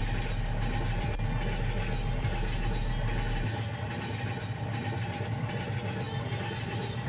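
A vehicle engine running steadily with a low hum; its deepest rumble drops away about halfway through.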